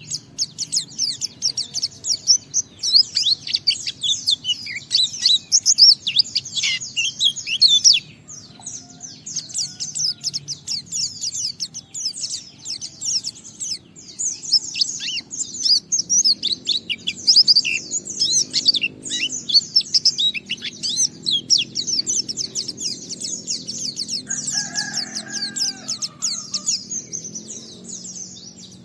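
White-eye (pleci) singing a rapid, unbroken high twittering song, the long 'ngalas' style, with a short pause about eight seconds in. A lower, separate call is heard about three quarters of the way through.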